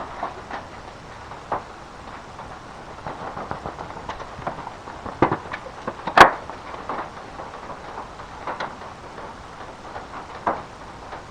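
Irregular light knocks and clicks, as of things being handled, with one sharp, loud click about six seconds in.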